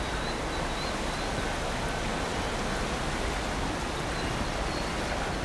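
Steady rushing of floodwater from the brimming river stream, an even hiss without a break.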